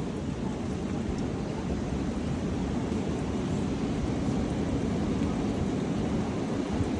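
Strong wind blowing, a steady low rushing noise that builds slightly.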